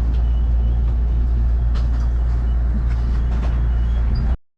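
Steady low rumble of a train running, with a few faint clicks over it, cutting off suddenly near the end.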